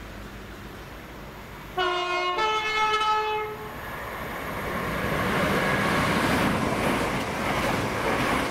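Electric multiple-unit passenger train sounding its two-tone horn about two seconds in, a short lower note then a longer higher one. It then runs through the station, its rumble and rail noise growing louder as it passes close by.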